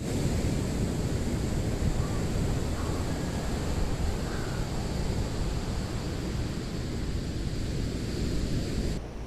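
Wind blowing over the microphone: a loud, steady rumble with a hiss above it.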